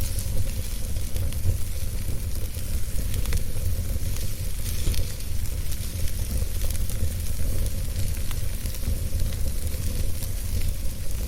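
Wood fire burning in a fireplace: a steady low rumble and hiss, with small crackles popping at random throughout.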